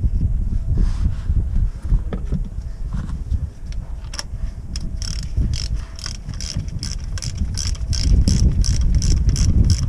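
Hand ratchet wrench clicking in a steady run, about four clicks a second, starting about five seconds in, over a low rumble and a few scattered knocks from tools being handled.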